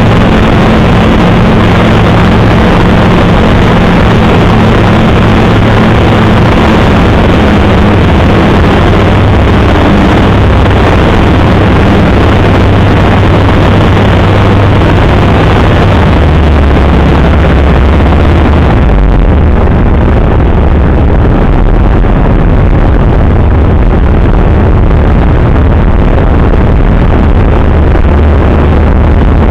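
Light aircraft heard from the cockpit during a practice engine failure: the engine running at low power under a loud rush of air. About two-thirds of the way through, the engine note drops lower and the hiss of the airflow fades.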